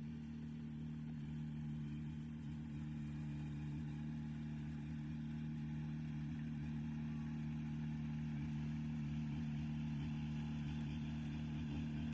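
Heavy diesel engine of earthmoving equipment running steadily with a constant low hum.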